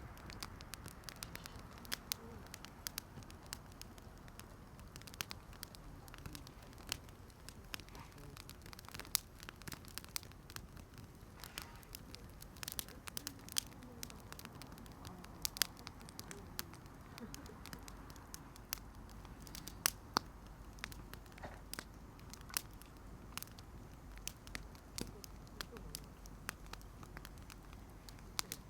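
Wood campfire crackling, with frequent irregular sharp pops and snaps over a low, steady hiss.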